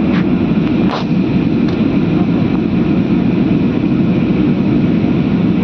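Steady loud drone of an airliner cabin in flight, engine and airflow noise, with two faint clicks in the first second.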